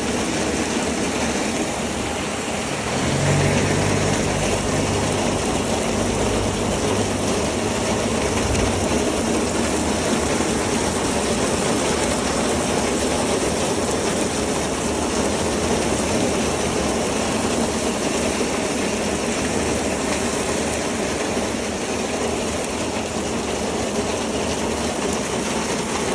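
A train running steadily, with a continuous rushing rumble; a low hum comes in about three seconds in and fades after about nine seconds.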